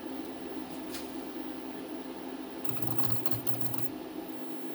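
Mill axis jogging under motor drive, a buzzy pulsing run of about a second near the middle, over a steady machine hum; a single click comes about a second in.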